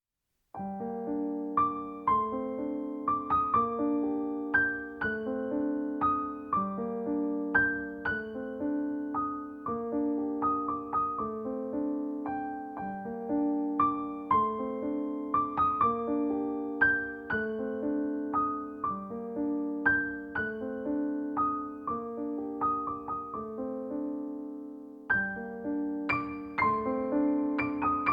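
Background piano music: a gentle piano or electric piano playing a repeating pattern of notes, starting about half a second in.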